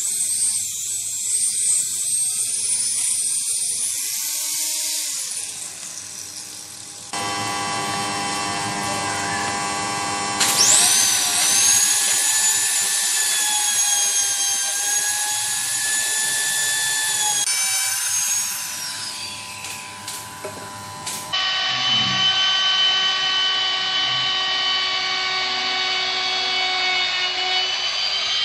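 Woodworking power tools running in a string of short, abruptly joined clips. The loudest is a high whine that starts suddenly about a third of the way in, holds steady, then winds down.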